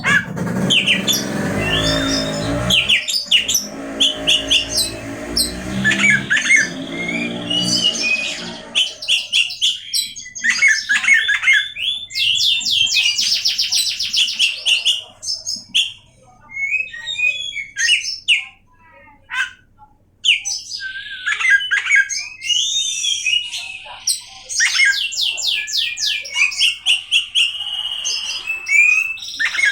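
Oriental magpie-robin (kacer) singing a varied song of whistled notes and fast rattling trills, with a couple of short pauses about halfway through. A lower-pitched sound runs beneath the song for the first nine seconds.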